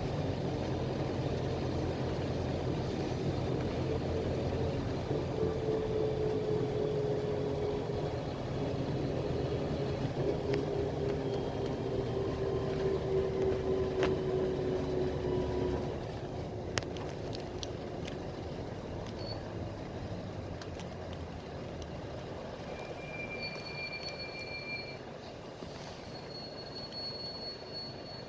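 Ride inside a PAZ Vector Next bus: engine drone and road noise with a whine that slowly falls in pitch. About sixteen seconds in the low engine drone drops away and the ride goes on more quietly, with a few faint clicks.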